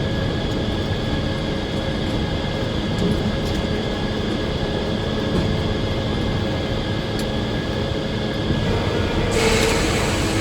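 Circular sawmill running steadily: a constant machine drone with a few steady high whines. About nine seconds in, a louder hiss comes in over it.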